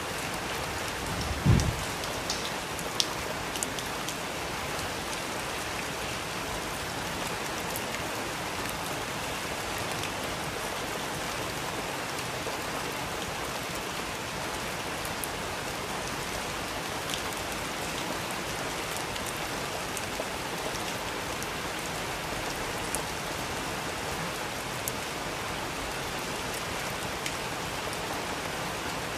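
Steady rain falling, with scattered sharp drip ticks close by. About a second and a half in there is a brief low thud.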